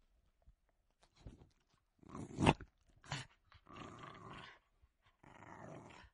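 Dog growling in low, rough stretches of about a second each, broken by short sharp outbursts; the loudest outburst is about two and a half seconds in.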